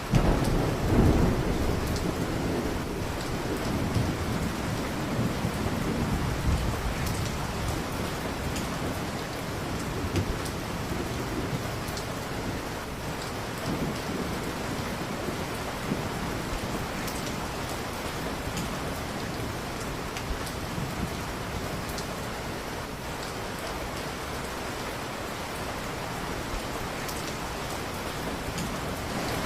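Steady heavy rain, with a low rumble of thunder swelling in the first couple of seconds and again around six seconds in.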